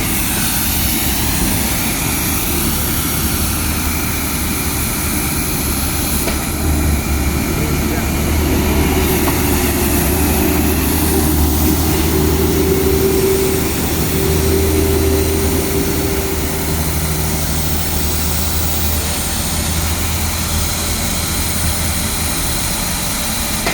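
Vacuum truck running with a steady, loud machine drone, swelling somewhat about a third of the way in and easing again toward the end.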